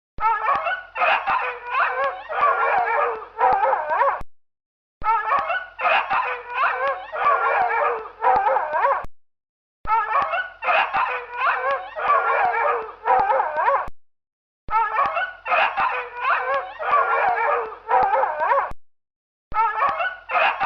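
Dog howling, yipping and whining in high, wavering cries. The same roughly 4-second stretch is repeated about five times, with a short complete silence between repeats.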